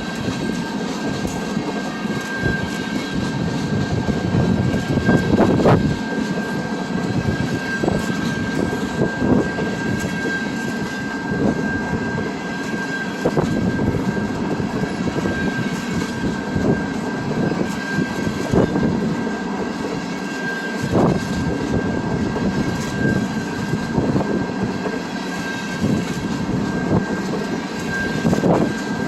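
A train passing on the line, a steady rumble with irregular clanks and knocks from the wheels over the track and a steady high whine held throughout.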